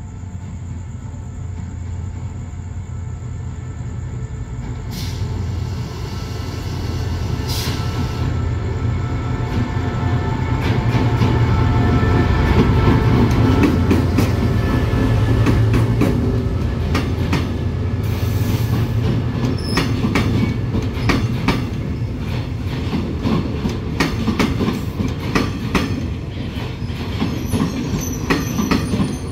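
A diesel locomotive pulls in with its engine rumbling, growing louder as it approaches and passes. Its passenger coaches then roll by with a rapid run of wheel clicks over the rail joints.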